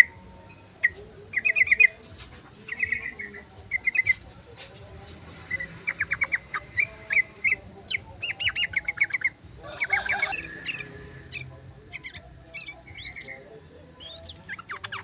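Yellow-vented bulbul (trucukan) singing: repeated short, bubbly chattering phrases and quick trills. A brief rustle comes about ten seconds in.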